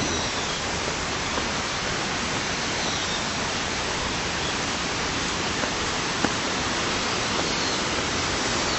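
Steady rush of flowing water, an even hiss without a break.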